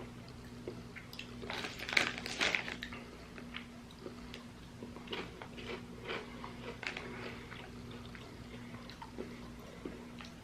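Potato crisps being bitten and chewed: a burst of loud crunching about two seconds in, then quieter, scattered crunches.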